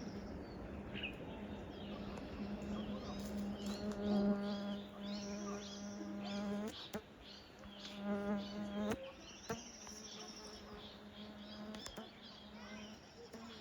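An insect buzzing steadily, swelling louder and fuller about four seconds in and again about eight seconds in, with a few short high chirps.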